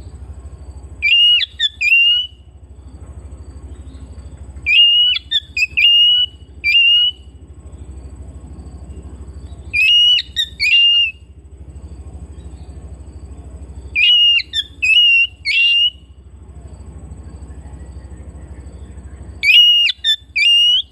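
Oriental magpie-robin (kacer) singing short phrases of clear whistled notes, five phrases about every four to five seconds, over a steady low hum.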